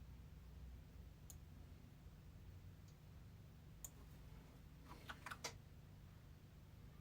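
Near silence: a low steady room hum with a few faint sharp clicks, a quick cluster of them about five seconds in.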